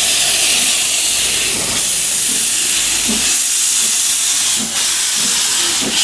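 Loud, steady hiss, strongest in the high range, with a few brief dips.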